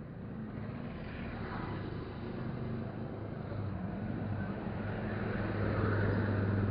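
Motorcycle engine running steadily while riding, with road and wind noise; the engine hum grows louder in the second half.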